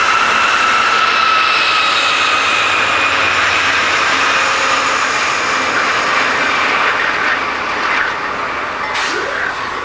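A train passing close by: loud steady running noise with a high whine that sinks slowly in pitch.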